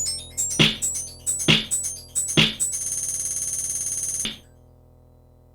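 Electronic music played on a Korg synthesizer: a steady drum-machine beat with synth notes, then one held buzzy synth chord that cuts off suddenly about four seconds in, leaving only a faint hum.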